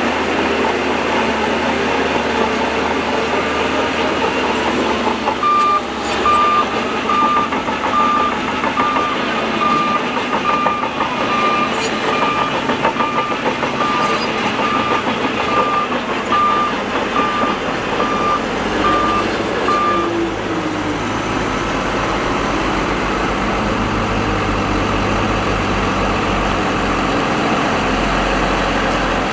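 Heavy earthmoving machinery engines running steadily, with a reversing alarm beeping at an even pace for about fourteen seconds, starting about six seconds in. A deeper engine rumble grows louder in the last third.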